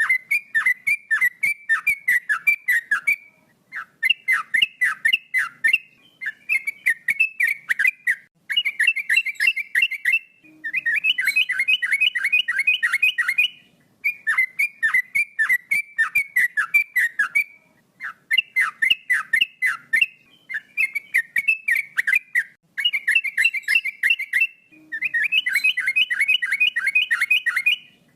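Male yellow-vented bulbul (trucuk) singing: phrases of rapid, falling whistled notes, each phrase a second or three long, repeated over and over with short pauses between.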